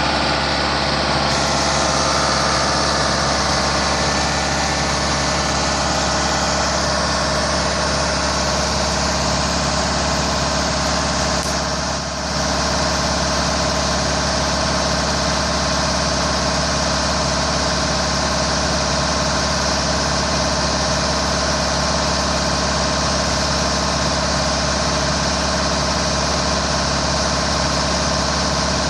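Hydraulic winch and its power unit running steadily as the antenna tower is raised, an even engine-like hum. The level dips briefly about twelve seconds in.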